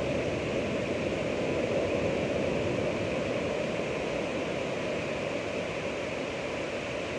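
Ocean surf: a steady rushing wash of waves without distinct separate breaks, swelling slightly about two seconds in.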